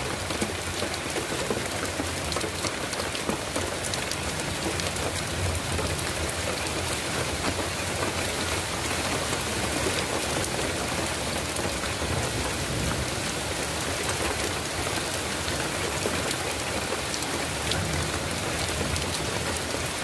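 Heavy rain falling steadily, with many sharp ticks of single drops striking.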